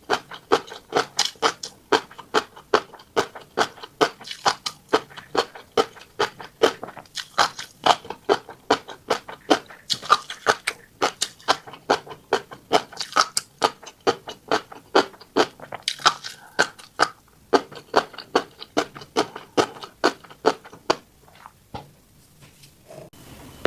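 Close-miked crunchy chewing of a mouthful of tiny black seeds, a steady run of sharp crunches about three a second that stops near the end.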